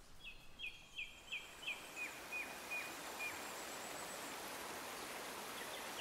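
Nature ambience: a bird gives a run of about nine short, high, falling chirps, a little under three a second, stopping after about three seconds. Under it a steady outdoor hiss carries on.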